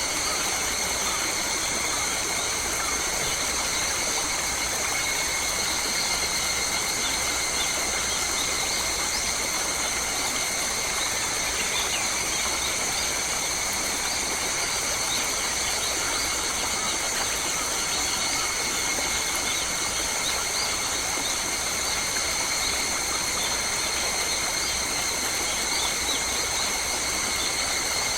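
Steady, high-pitched drone of a forest insect chorus, with scattered faint bird chirps over it.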